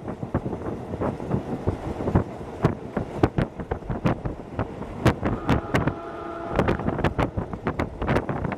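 Running noise of a Hokuso Railway 7260 series electric train heard from inside, as it travels: a steady rumble with frequent sharp clicks and knocks. A brief steady tone with several pitches sounds for about a second around the middle.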